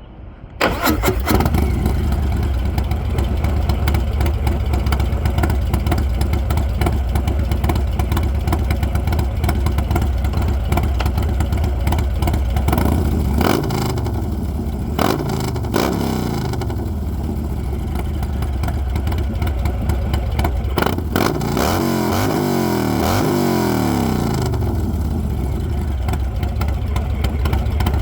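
Motorcycle engine breathing through an HPI Low Rider ST exhaust, started warm and catching just after the start, then idling steadily. It is revved up and back down a few times around the middle and again about three-quarters of the way through before settling back to idle.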